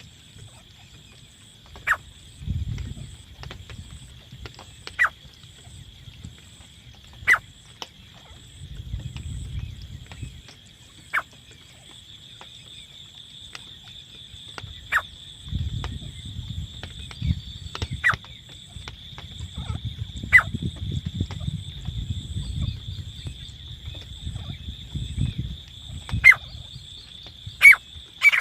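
Teetar (francolin) giving single short, sharp falling call notes, one every two to four seconds, quickening near the end, over a steady high-pitched drone and low rumbling that comes and goes.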